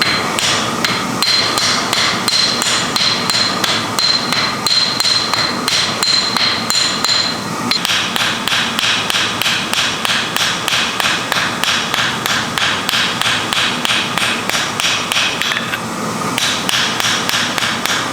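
Rapid, steady hammer blows on metal at a forge, about four a second, with a ringing tone over the first half. The run breaks off briefly about eight seconds in and again about sixteen seconds in.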